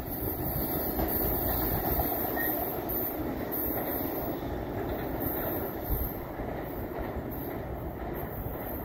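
A train rolling away along the track, its rumble and wheel noise slowly fading as it recedes.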